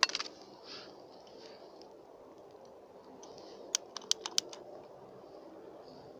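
Sharp clicks: a loud cluster right at the start and a quick run of about five near the middle, over a steady low background hiss.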